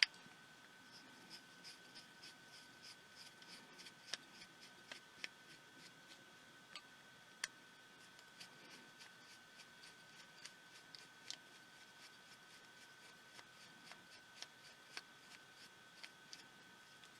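Faint clicks and light scraping as small tools handle the tiny plastic parts and screws of a pico projector during disassembly. A quick run of light ticks, about three a second, comes near the start, then scattered single clicks, the loudest about seven seconds in, over a faint steady high whine.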